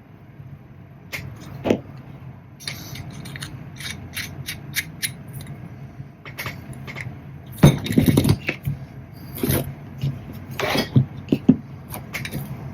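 Small metal parts clinking, clicking and scraping as they are handled, in irregular short strikes, loudest about two-thirds of the way through, over a steady low hum.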